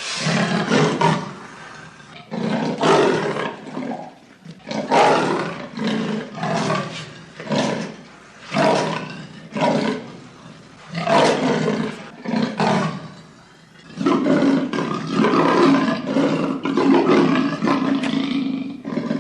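Leopard calling: a long series of rough, grunting calls about one a second, coming closer together over the last few seconds.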